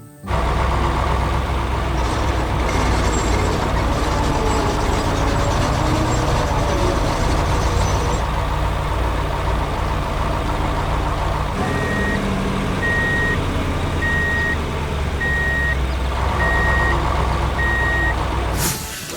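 Heavy construction vehicle's engine running with a steady low rumble, starting suddenly and cutting off near the end. Partway through, its reversing alarm beeps six times, about a second apart.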